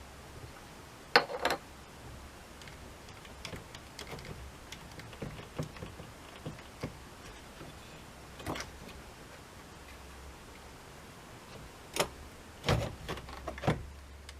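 Scattered clicks and light knocks of small hard parts being handled, loudest about a second in and in a cluster near the end, over a steady low hum.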